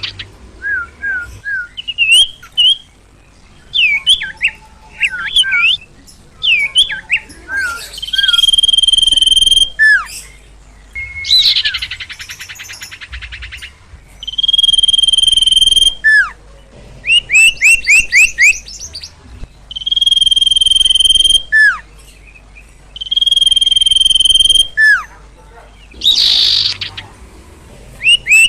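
A sirtu (sirpo) songbird singing loudly and agitatedly. Its song mixes long, steady, high whistles, each ending in a quick falling note, with rapid runs of short rising chirps. About a second long harsh buzzy rasps come in twice.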